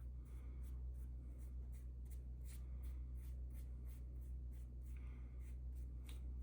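Short scratchy strokes, about two or three a second, of stain being worked onto a deer antler, over a steady low hum.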